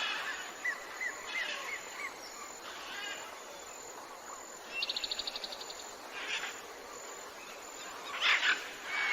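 Tropical jungle birds calling over a steady background hiss: about four short rising chirps in the first two seconds, a rapid trill of about a dozen quick notes about five seconds in, and loud calls near the end.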